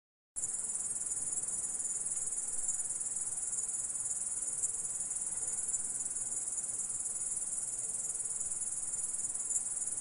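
Stridulating singing insect, sold as a grasshopper, giving a steady high-pitched trill with no breaks. It starts suddenly about half a second in out of dead silence.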